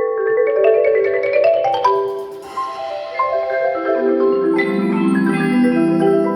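Percussion ensemble playing pitched mallet instruments such as marimba: a dense run of quick struck notes in the upper range, with lower held notes coming in about four seconds in.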